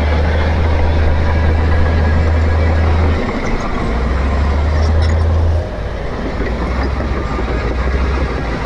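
Heavy diesel earthmoving machinery running, its engine giving a deep, steady low hum under a broad mechanical noise. The low hum drops out briefly a little after three seconds, comes back, then eases off and the whole sound gets a bit quieter about halfway through.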